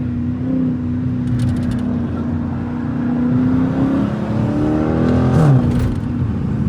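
Straight-piped Dodge Challenger Scat Pack's 6.4-litre HEMI V8 accelerating: a steady exhaust drone that climbs in pitch from about three seconds in, then falls sharply about five and a half seconds in as the revs drop at a gear change.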